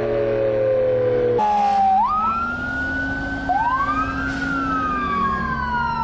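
Emergency-vehicle sirens wailing, with two or more pitches sliding up and down over each other. At first a steady low drone runs under a slowly falling tone; about a second and a half in this cuts away to the sirens rising and falling.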